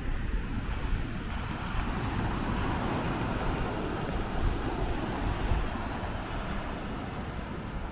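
Surf washing onto a beach, a steady rush that swells in the middle, with wind buffeting the microphone.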